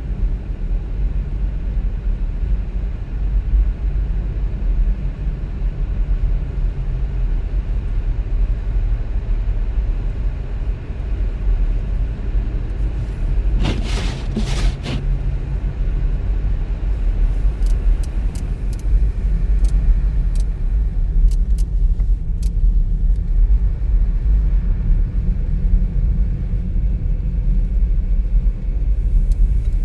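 Car driving on the road, a steady low rumble of tyre and engine noise. About fourteen seconds in there is a brief burst of sharp knocks, and a few faint ticks follow over the next several seconds.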